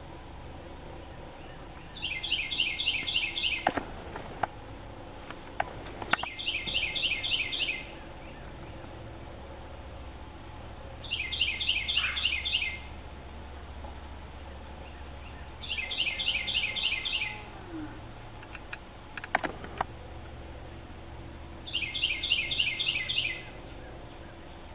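Birds calling: a rapid chattering call, about a second and a half long, repeats five times, over continual thin, high chirps. A few sharp taps fall among them.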